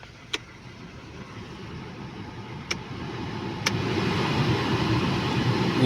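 Volkswagen Polo sedan's cabin heater blower fan running, its rush of air growing louder as the speed control clicks up three times. It runs without the whistle it used to make, since the fan no longer rubs against the plastic housing.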